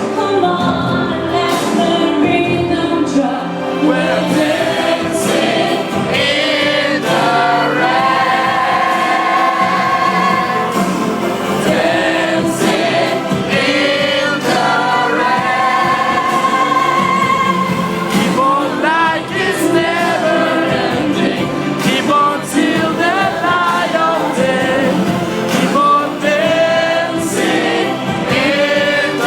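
Live pop song played by a band with singing throughout: long held vocal lines with vibrato over a steady drum beat, with several voices singing together.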